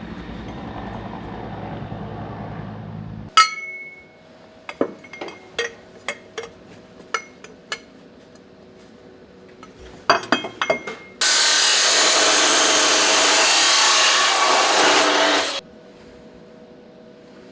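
Metalworking in a muffler shop: a low steady rumble that cuts off, then a run of light metal clinks and taps, then a power tool working metal loudly and evenly for about four seconds before stopping abruptly.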